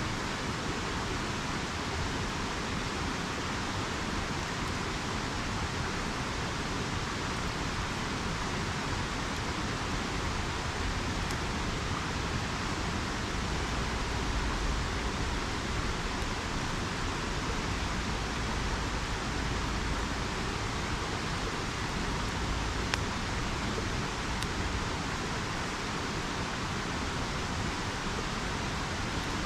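A river rushing steadily, with a couple of faint pops from a wood campfire.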